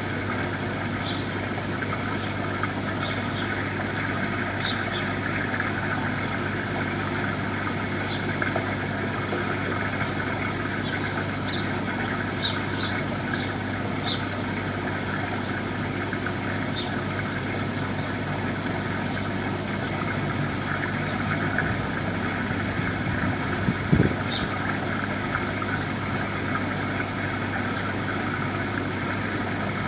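Steady mechanical drone of an idling engine, unchanging throughout, with faint short high chirps now and then and a single knock about 24 seconds in.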